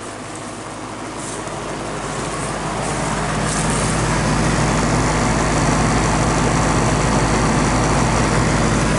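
1993 Janitrol heat pump's outdoor unit running in cooling mode: a steady low hum under a rushing noise, growing louder over the first few seconds and then holding steady.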